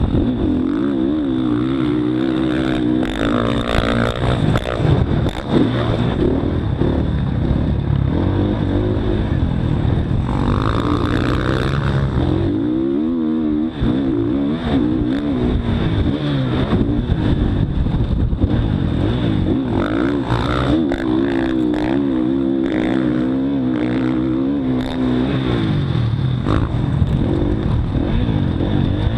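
Motocross dirt bike engine under riding load, its pitch rising and falling over and over as the throttle is worked through the track, with a short let-off about thirteen seconds in.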